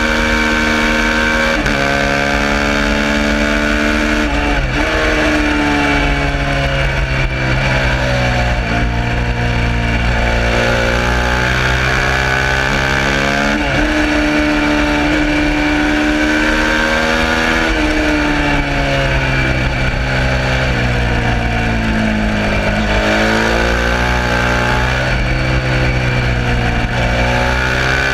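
Suzuki SV650's V-twin engine racing, revving hard with sudden pitch drops at gear changes and slower falls and rises in pitch as it slows for corners and accelerates again.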